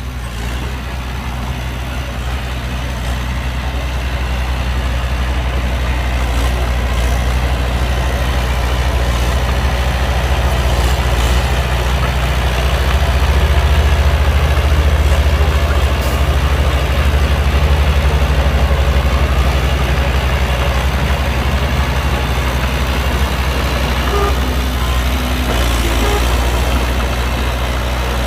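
Heavy diesel engine of earthmoving machinery (dump truck or bulldozer) running with a steady low drone, growing louder a few seconds in and loudest about halfway through.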